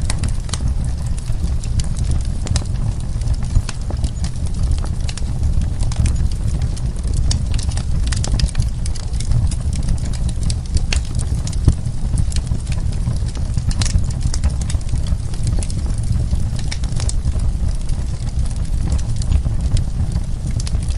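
Wood fire burning in a fireplace: a steady low rumble with frequent sharp crackles and pops of burning wood.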